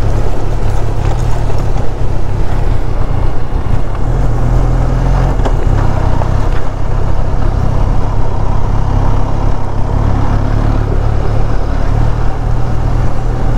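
Benelli TRK 502 adventure motorcycle's parallel-twin engine running at fairly steady, low revs while riding a dirt track, heard from a camera mounted on the bike.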